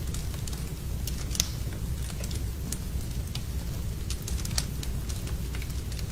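Wood fire burning in a fireplace: a steady low rumble of the flames with irregular crackles and snaps, two louder pops about a second and a half and four and a half seconds in.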